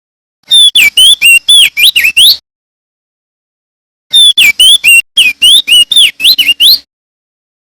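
Male opior jambul (crested white-eye) singing loudly: two rapid phrases of about two seconds each, made of quick whistled notes that swoop sharply up and down, with a pause of a second and a half between them.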